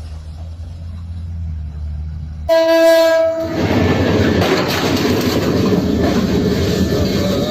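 A low rumble that cuts off abruptly, then one loud horn blast of about a second, then a loud, steady rushing noise.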